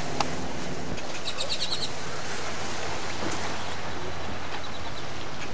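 A bird chirping: a quick run of about six short, high chirps about a second in, and a few fainter single chirps later, over a steady low rumble.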